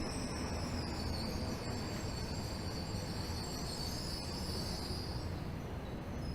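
Tokyo Metro 13000 series subway car running into a station, heard from inside: a low, steady running rumble under a high-pitched squeal from the wheels that fades out about five seconds in.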